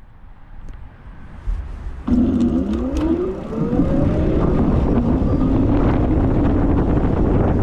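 E-bike electric motor whining up in pitch as the bike pulls away about two seconds in, then running steadily, with wind rumbling on the microphone.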